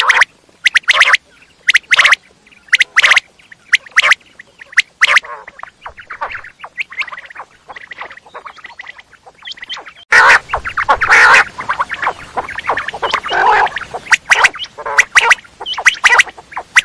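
Quail calling in short, sharp notes, often in pairs, repeated every second or so. About ten seconds in, the calls crowd together and overlap over a hiss.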